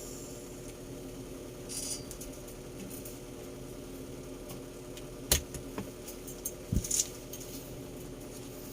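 Light handling noises: scattered clicks and small rattles over a faint steady hum, with one sharp click about five seconds in.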